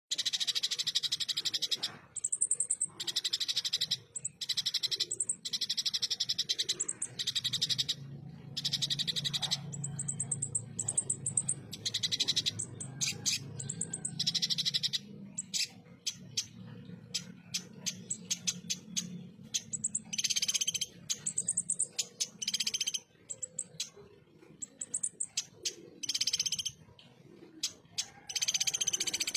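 Van Hasselt's sunbird (kolibri ninja) singing a harsh, rapid-fire 'tembakan' song: runs of sharp, high chips and buzzy trills, each burst about a second long, repeated throughout.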